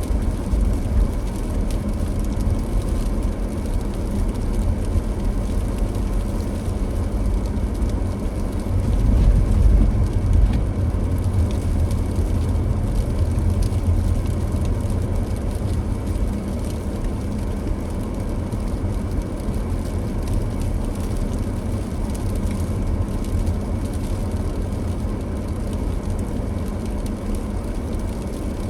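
A car driving: a steady low rumble of engine and tyre noise, swelling briefly about nine seconds in.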